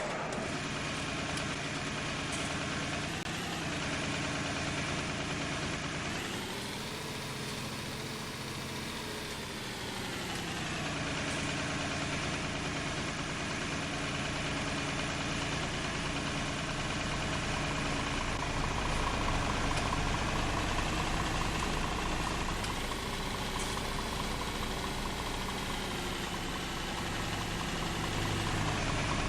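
Old tractor engine, started after standing unused for 28 years, running at idle. It is revved up about six seconds in, held for a few seconds and let drop back, then raised briefly again later.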